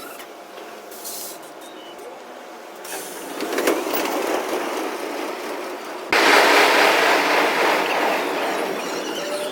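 A train running, a steady noisy sound without clear tones. It is quieter for the first few seconds, grows louder, then jumps abruptly to a much louder hissing noise about six seconds in.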